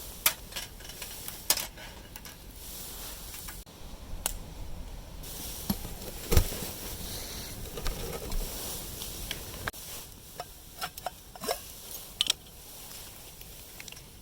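Metal camp cookware being handled: scattered clinks, taps and knocks of metal on metal, the loudest a little past the middle, over a faint steady hiss.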